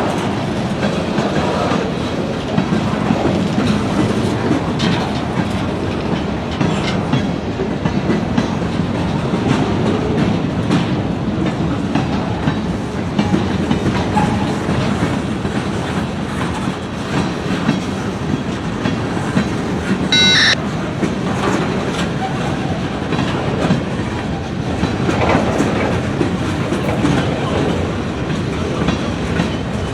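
Train cars rolling past, their wheels clicking steadily over the rail joints. Just past two-thirds of the way through there is a short high-pitched tone.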